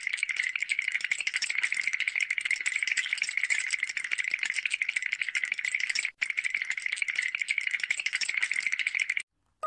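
Metal lid of a large pot on a gas flame rattling rapidly as the boiling steam lifts it: a fast, continuous clatter, broken once for an instant about six seconds in, stopping just before the end.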